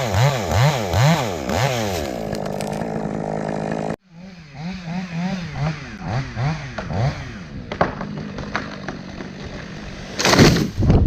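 Chainsaw being revved in quick throttle blips, about three a second, then settling to a steady idle. After an abrupt break it is blipped again more faintly, and a short loud rush of noise comes near the end.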